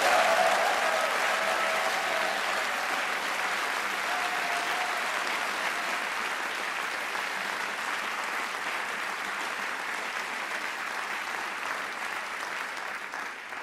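Theatre audience applauding steadily, loudest at first and slowly dying away, with a few faint cheers or calls in the first seconds.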